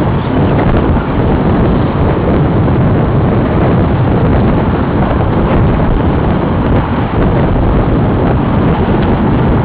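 Steady, loud wind buffeting the microphone of a bicycle freewheeling downhill at speed, a dense low rumble with no break.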